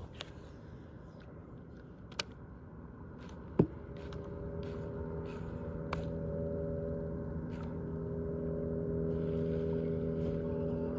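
An engine drone with a steady pitch, getting louder from about four seconds in, with two sharp knocks a little before it starts.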